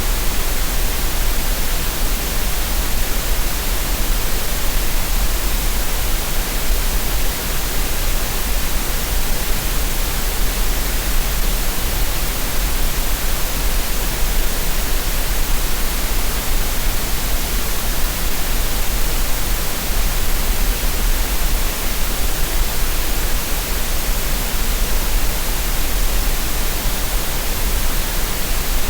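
Green noise: a steady, unchanging synthetic hiss with no breaks or events, played as a relaxation and tinnitus-masking sound.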